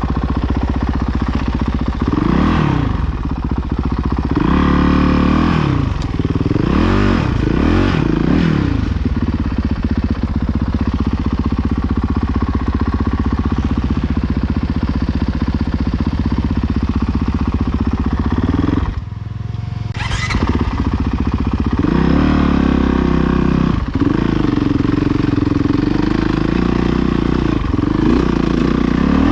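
Honda CRF450R single-cylinder four-stroke dirt bike engine revving up and down several times, then held at steady high revs, with a brief drop in engine sound about two-thirds of the way through.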